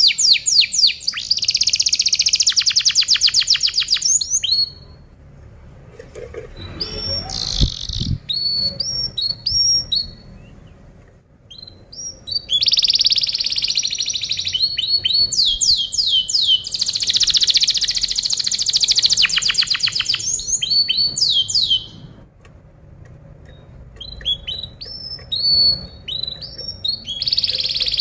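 Domestic canary singing: fast rolling trills of rapidly repeated high notes, in phrases a few seconds long, with short gaps of scattered chirps between them.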